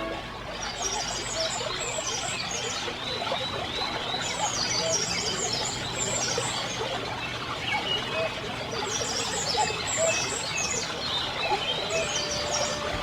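Small birds singing in short bursts of rapid high chirps that recur every few seconds, over a steady background hiss.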